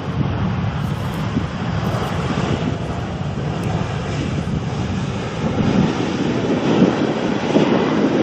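Jet airliner engines on landing approach, a loud steady rushing noise that swells as the plane passes close and peaks near the end.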